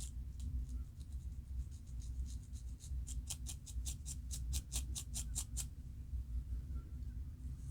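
Scalp being scratched to loosen dandruff: dry scratching strokes, faint at first, then a quick run of about five strokes a second for a couple of seconds in the middle, over a steady low hum.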